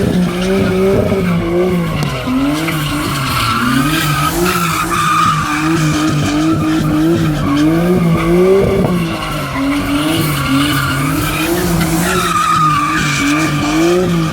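Nissan Skyline engine in a Ford Transit van running, its revs rising and falling in small swings about once a second, with a higher whine that follows the revs.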